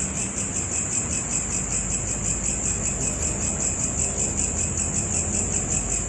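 Steady, high-pitched insect trilling that pulses rapidly and continuously, like a chorus of crickets.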